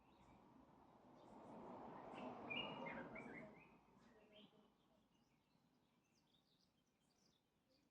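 Near silence with faint bird chirps, and a soft swell of rushing background noise a couple of seconds in that fades away.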